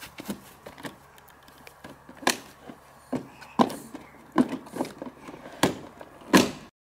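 Irregular plastic knocks and thumps as a child climbs into a plastic ride-on toy car, its door and body bumping under him, about nine sharp knocks, the loudest in the second half. The sound cuts off suddenly near the end.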